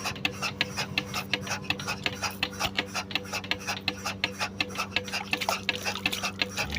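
Milking machine with a petrol engine running: a steady hum with rapid, even ticking.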